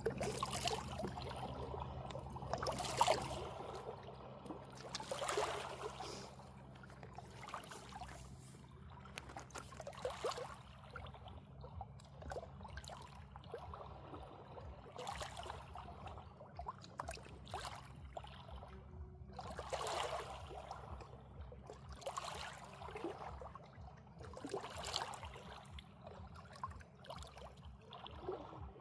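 Water lapping and splashing in irregular surges every few seconds, over a low steady hum that fades out after the first several seconds.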